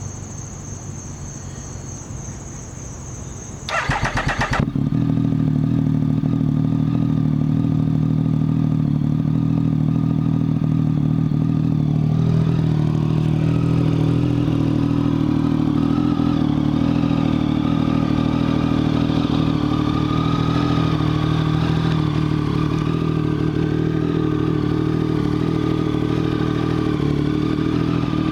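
Triumph Speed Triple's 1050 cc three-cylinder engine, breathing through Mivv Suono mufflers cut about 2.5 inches shorter, is cranked briefly about four seconds in, catches, and then idles steadily as it warms up.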